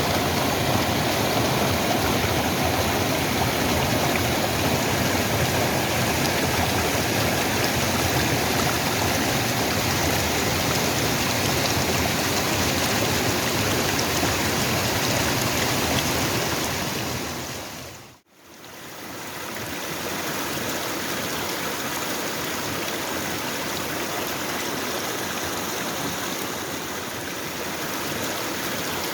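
Mountain waterfall rushing steadily. The sound fades out about two-thirds of the way through, then fades back in a little quieter.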